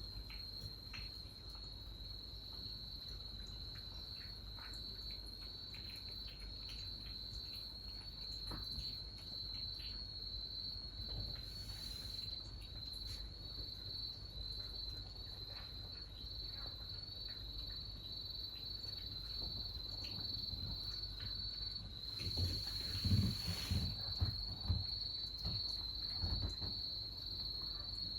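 Crickets chirping in a steady, evenly pulsing high trill. Scattered light taps run underneath, with a louder cluster of knocks and a brief rustle near the end.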